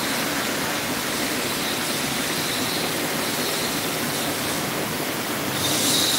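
Heavy rain pouring down in a steady, dense hiss that grows a little louder near the end.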